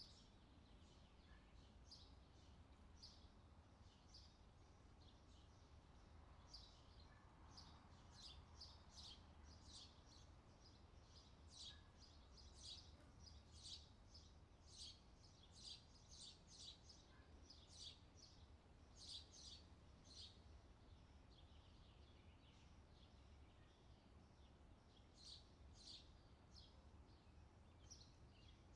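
Faint chirping of small birds over near-silent room tone: many short, high chirps at irregular intervals, busiest through the middle and thinning toward the end.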